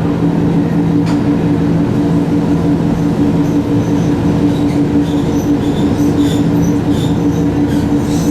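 Electric passenger train running on the line, heard from aboard: a steady hum and rumble of the running gear, with short faint high squeaks from the wheels on the rails in the second half.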